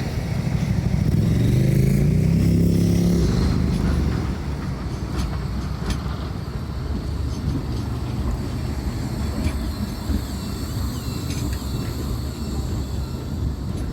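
A Blackpool tram accelerating, its motor pitch rising over the first few seconds. It then fades into a steady low rumble with a few sharp clicks.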